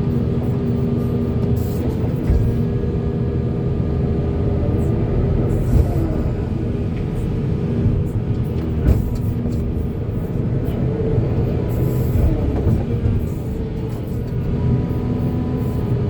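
Volvo excavator's diesel engine running steadily while it works, a constant drone with a few sharp knocks about six and nine seconds in.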